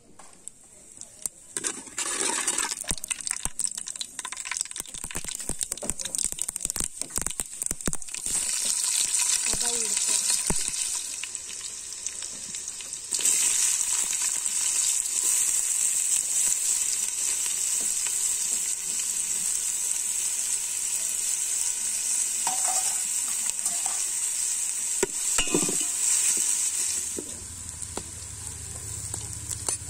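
Hot oil in an aluminium pot: a dense crackle of mustard and cumin seeds popping in the first several seconds, then a steady sizzle of frying. The sizzle grows louder partway through once chopped onions and green chillies are in, and eases near the end.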